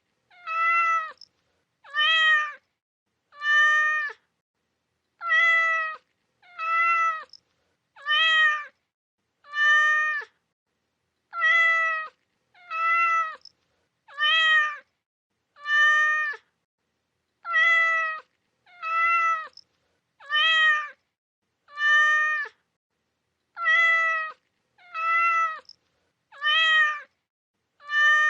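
Cat meows, each short and steady in pitch, repeating at an even pace in sets of four with a short pause between sets. The calls sound almost identical, like a repeated recording.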